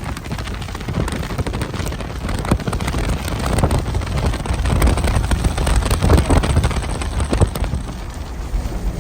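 Heavy rain in a storm with wind buffeting the microphone: a continuous rushing noise with a strong low rumble and many sharp clicks of drops striking.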